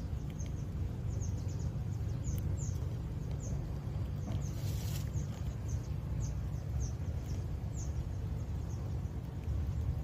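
Small birds chirping in the background, short high downward chirps coming every second or so, over a steady low rumble. A brief hiss comes about five seconds in.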